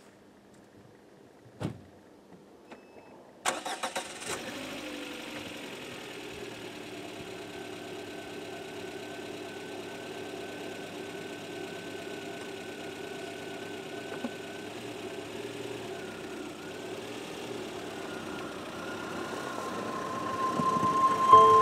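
A car engine cranks and starts about three and a half seconds in, after a single click, then idles steadily.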